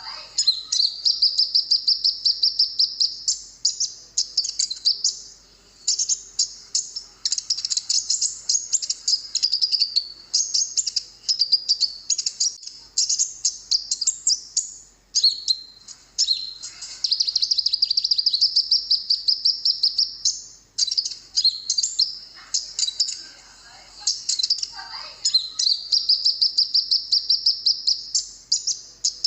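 Konin bird singing: long phrases of rapid, high-pitched chattering and trilling, broken by brief pauses, as used for a masteran song-training recording.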